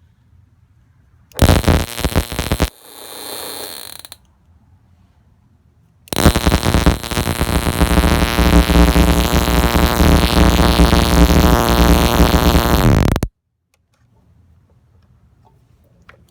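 Ignition coil being test-fired, a loud, rapid crackling buzz of sparks: a short burst about a second and a half in, then a longer run of about seven seconds that cuts off suddenly.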